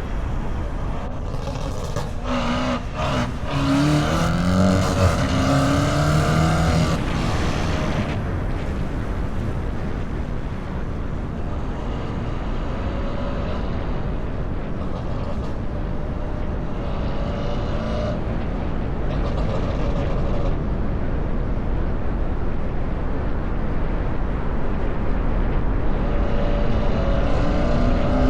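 A car driving, its engine and exhaust running under a steady rumble of road and wind noise, pulling up through the revs with a rising pitch about two seconds in and again near the end. A few sharp knocks sound between about two and three and a half seconds in.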